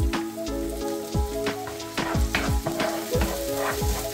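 Chopped onions and red lentils sizzling in oil in a frying pan while a wooden spoon stirs them. Background music with a steady beat plays over it.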